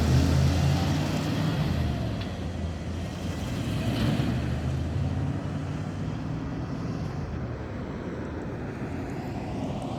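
1994 Ford F350 pickup's engine running with a steady low hum, louder in the first few seconds and then settling somewhat quieter.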